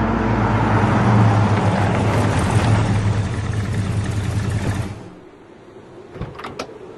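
A Ford Thunderbird's engine running loudly with a low rumble, then shut off about five seconds in, followed by a few sharp clicks.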